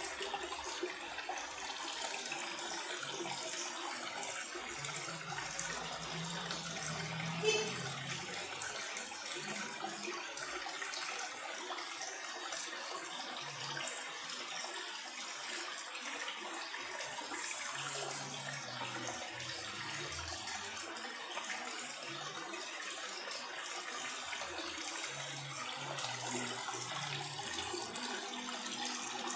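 Steady running water from an aquarium's filter return, a continuous trickling and splashing at the surface.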